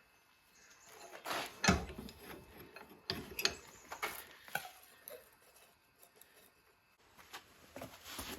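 Irregular clinks, knocks and scrapes of small metal tools and threaded rod being handled, with the sharpest knock about two seconds in and a brief lull before more clinks near the end.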